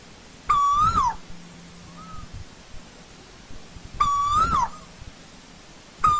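Asian koel calling: two loud whistled calls about three and a half seconds apart, each a steady note that swells slightly then drops away, with a third call starting at the very end. A faint, shorter note sounds between them.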